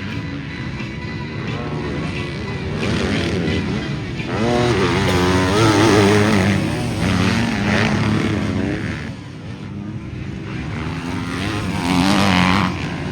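Several motocross bikes' engines running and revving together, their pitch rising and falling as the throttles are blipped and opened, loudest about a third of the way in and again near the end.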